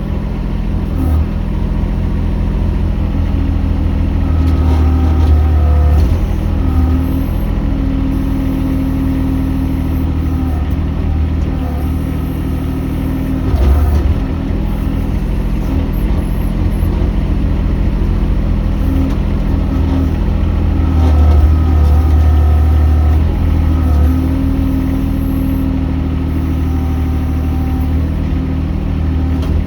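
Mini excavator engine running steadily, with a hydraulic whine that comes and goes and shifts in pitch as the machine works.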